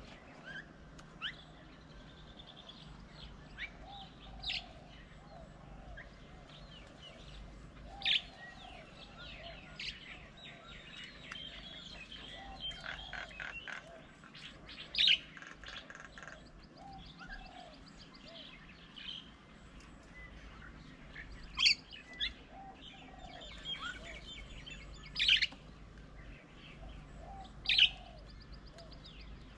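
Several wild birds chirping and calling: many short high chirps throughout, loud sharp calls every few seconds, and repeated lower-pitched calls beneath.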